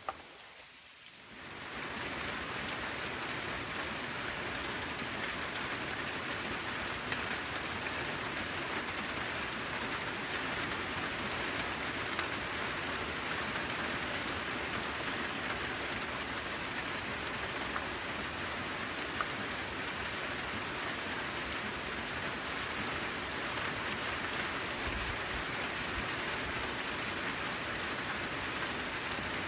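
Steady rain falling on a corrugated zinc sheet roof, a dense hiss with scattered drop ticks. It is fainter at first and swells up to full strength about two seconds in.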